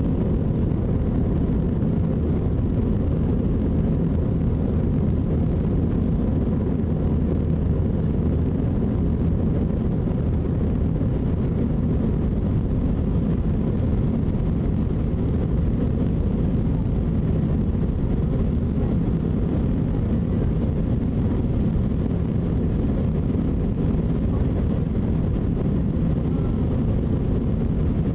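Steady low cabin drone of an Airbus A320 in its climb: jet engines and airflow running evenly, with a faint thin tone above the roar.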